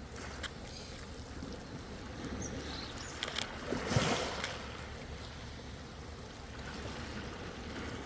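Ocean waves washing in steadily, with a louder wave surging about four seconds in and a few short clicks of splashing water.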